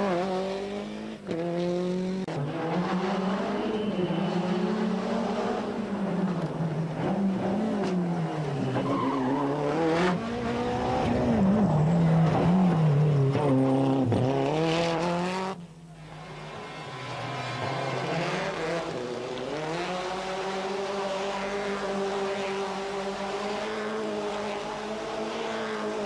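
Nissan Pulsar GTI-R rally car's turbocharged 2.0-litre four-cylinder engine at full stage pace, revving up and down through repeated gear changes. About fifteen seconds in the sound drops off abruptly, then the engine comes back on a steadier, slowly climbing note.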